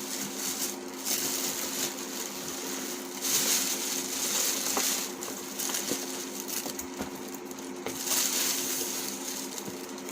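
Packaging rustling and crinkling in repeated bursts of about a second each as a parcel is unwrapped by hand, over a faint steady hum.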